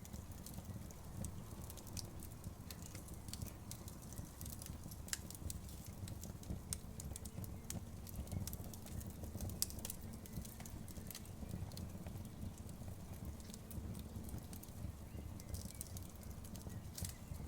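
Outdoor wood bonfire crackling: irregular sharp pops and snaps over a steady low rumble of burning.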